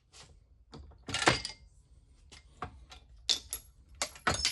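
Sharp metallic clinks and knocks of small steel parts, a piece of pipe and a pin, being handled and set against an aluminium vise jaw on an arbor press to push out a crooked press-fit pin. The loudest knock comes a little over a second in, with a quick cluster of clinks near the end, each ringing briefly.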